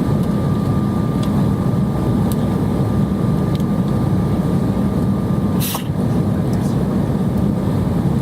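Steady roar of jet engines and airflow heard inside an airliner cabin during descent, with a faint steady whine that stops about two-thirds of the way through, where there is one brief clatter.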